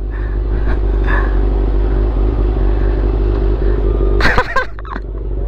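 Honda CB400 motorcycle engine running steadily at low speed, a low, even rumble that swells slightly at the start; a brief voice cuts in about four seconds in.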